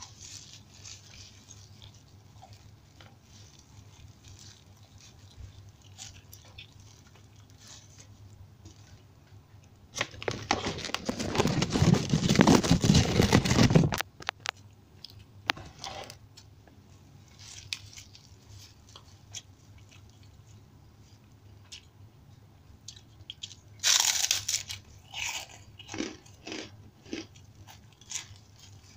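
Quiet chewing of rice and side dishes, broken about ten seconds in by four seconds of loud crinkling rustle. Near the end come a burst of crisp crunches and a few sharp cracks from a kerupuk cracker.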